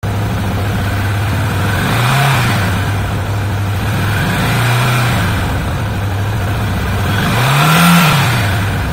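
Yamaha FZ 250's 249cc air-cooled single-cylinder engine idling steadily, with a short throttle blip that rises and falls in pitch about every two and a half seconds, three in all, the last one the highest and loudest.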